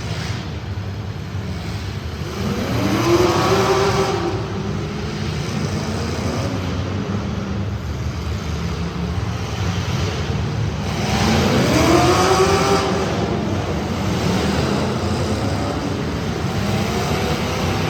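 Street stock race car engines running steadily, with an engine note rising twice as cars accelerate by.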